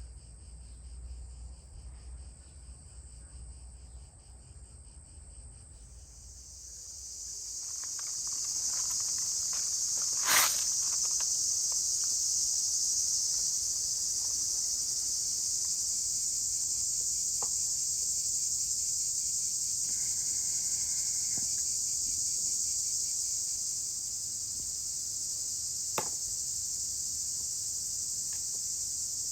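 Steady, high-pitched drone of a chorus of insects, which swells in about six seconds in and then holds. A sharp knock cuts through about ten seconds in, and a fainter click comes later.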